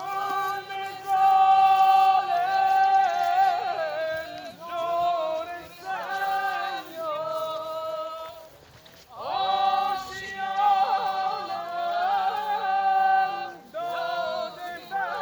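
Unaccompanied singing voice holding long, wavering notes, in several phrases with brief pauses between them.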